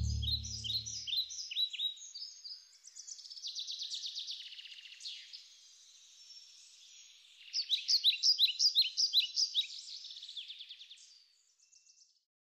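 Songbirds singing: runs of quick, high, downward-slurred chirps and trills, with a loud burst of rapid notes about eight seconds in, fading out near the end. Low background music fades out in the first second or so.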